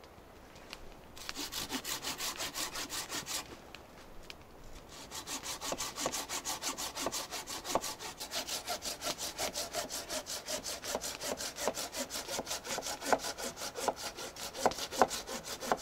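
Hand saw cutting through firewood with quick, even back-and-forth strokes. A short run of strokes comes about a second in, then a brief pause, then steady sawing from about five seconds in to the end.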